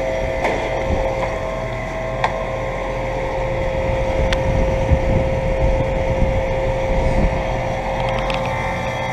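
Outdoor condenser unit of a 2007 Guardian 4-ton central air conditioner running steadily: its Bristol compressor and A.O. Smith condenser fan motor give a steady hum with a clear held tone over a rushing low rumble of moving air.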